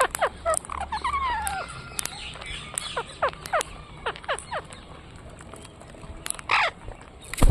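Birds calling: a string of short calls that each drop quickly in pitch, a longer wavering call that falls in the first two seconds, and a louder call about six and a half seconds in.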